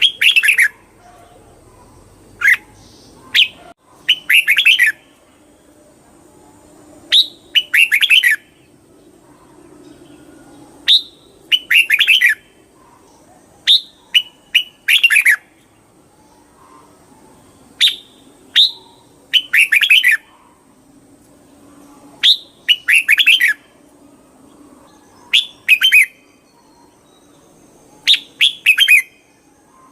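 Red-whiskered bulbul singing: short phrases of quick, bright chirping notes, repeated every one to three seconds and often coming in pairs.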